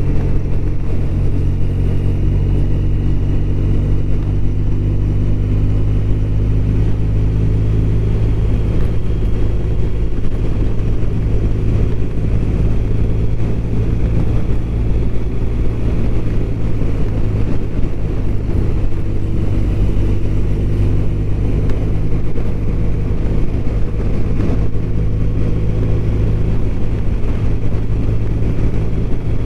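BMW R1200RT's boxer-twin engine running steadily while the motorcycle cruises at an even speed.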